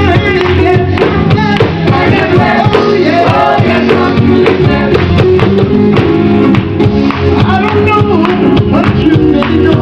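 Live gospel music: a gospel vocal group singing over a band with steady bass notes and a driving beat.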